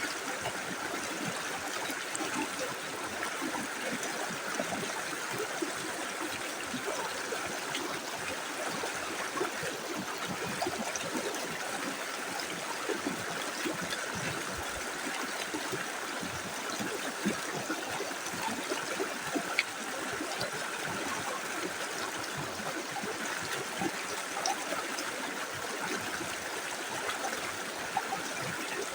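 Small river flowing over stones, a steady rush of water with many small gurgles and splashes.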